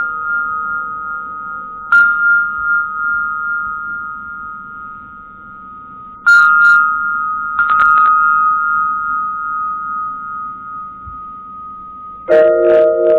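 Metal percussion struck every few seconds, each stroke leaving long ringing, bell-like tones. The hits come about 2 s in, around 6 and 8 s in as short clusters, and near the end, where a lower set of tones joins the high ringing.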